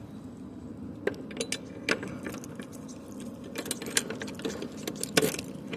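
Scattered metallic clicks and clanks from latch and lock hardware being worked by hand on a box truck's rear lift gate, over a steady low hum.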